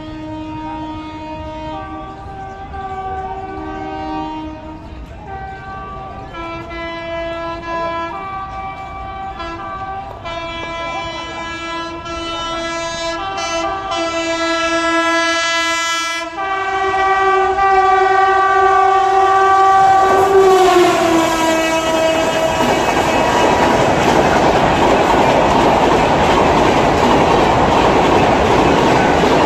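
Gatimaan Express approaching fast, its locomotive horn sounding a long string of repeated blasts, then one long blast that drops in pitch as the locomotive passes. This gives way to the loud rush and clickety-clack of the coaches speeding by.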